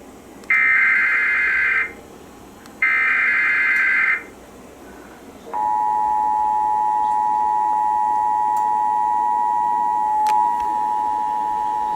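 Emergency Alert System SAME header: two bursts of rapid, buzzy digital data tones about a second and a half each, the last two of the header's three repeats. About five and a half seconds in, the steady two-tone EAS attention signal starts and holds, announcing that the alert message follows.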